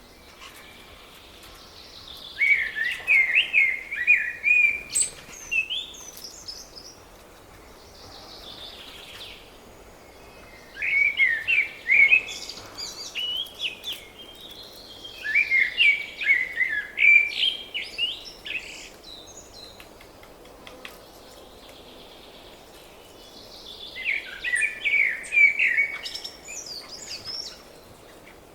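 Songbird song in four bursts of rapid, high chirping notes, separated by pauses of a few seconds, over a faint steady outdoor hiss.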